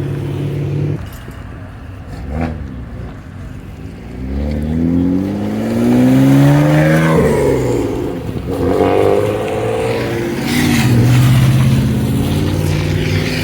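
A car engine accelerating hard: the engine note climbs for a few seconds, drops suddenly at a gear change about seven seconds in, then climbs again and holds.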